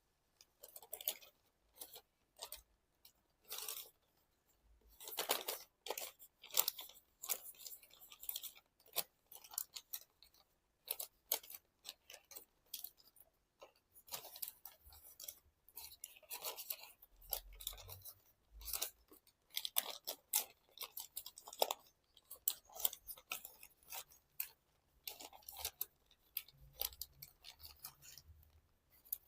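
Paper crinkling and rustling in irregular short crackles as an origami model is folded and collapsed by hand.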